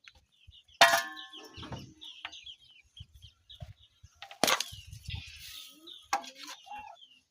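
A loud metallic clang with a ringing tone about a second in, then two more sharp knocks: metal cookware being handled while the chapati goes on to cook. Chickens cluck and small birds chirp throughout.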